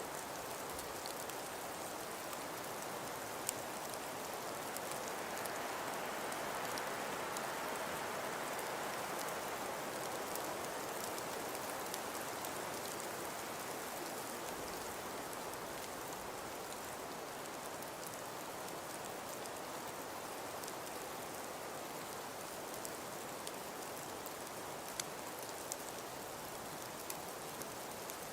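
Steady snowstorm wind, a constant rushing hiss that swells slightly a few seconds in and then eases, with fine scattered ticks and a few sharper clicks near the end.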